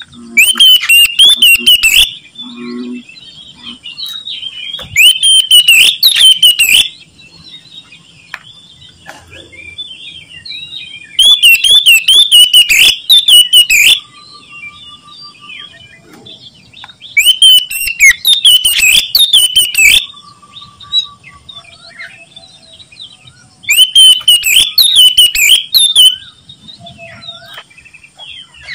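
Oriental magpie-robin (kacer) singing loudly in bursts of about two seconds, five times, roughly every six seconds, with fainter bird chirping in between.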